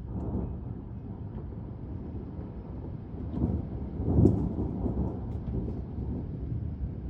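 Thunder rumbling low and rolling, swelling to its loudest about four seconds in before easing off.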